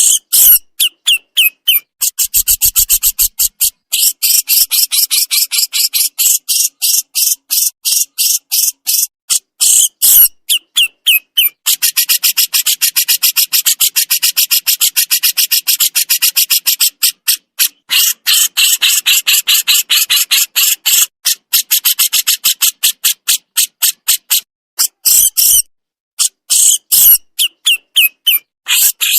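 Burung jenggot giving its harsh, rasping 'besetan' call: a rapid train of short, dry, high notes, many per second, in long runs broken by brief pauses.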